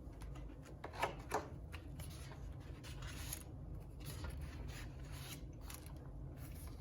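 Paper rustling as the pages of a picture book are handled and turned, with two louder, sharper rustles about a second in, over a faint steady low hum.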